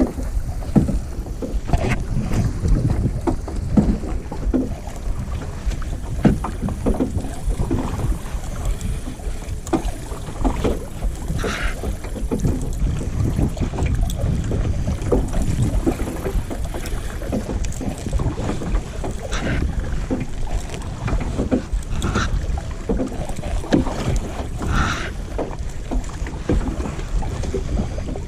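Kayak paddle strokes splashing and dripping in lake water, with wind rumbling on the microphone.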